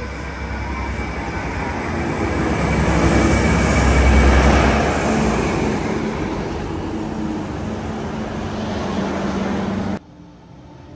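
Diesel passenger railcar pulling into the platform: its engine and wheels on the rails grow louder as it draws in, loudest about four seconds in, then run on steadily as it comes alongside. The sound cuts off suddenly near the end.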